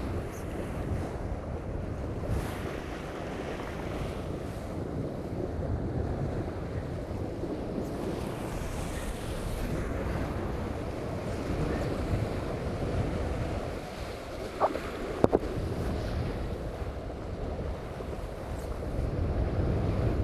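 Wind buffeting the microphone and water rushing past the hulls of a sailing catamaran under way in strong wind, steady throughout. A few brief sharp knocks come about three quarters of the way through.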